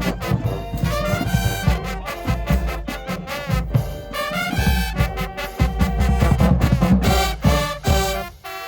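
High school marching band playing: loud brass horns with rips and falls over a driving drumline. The music cuts off near the end.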